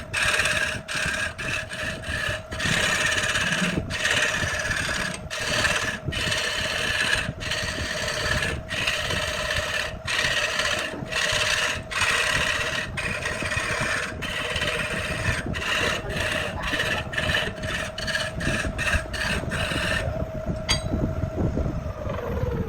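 Electric power tool rasping against wood over a steady motor whine, the rasping breaking off briefly again and again as the tool lifts from the work. Near the end the rasping stops and the motor winds down, its whine falling in pitch.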